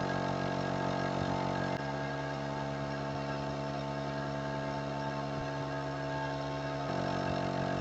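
A VEVOR 12 V portable air compressor runs steadily as it pumps a truck tire up near 75 psi. Its hum changes character at about two seconds in and changes back near the end.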